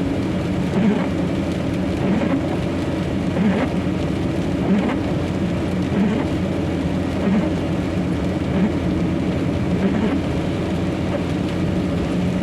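Semi-trailer truck's engine running steadily, heard from inside the cab while driving in heavy rain, with rain noise and faint regular pulses about every 1.3 seconds.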